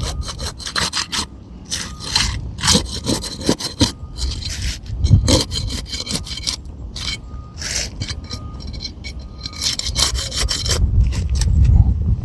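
Thin flat crowbar scraping and rubbing under an asphalt shingle in repeated short strokes, cutting the shingle loose from its tar sealant line.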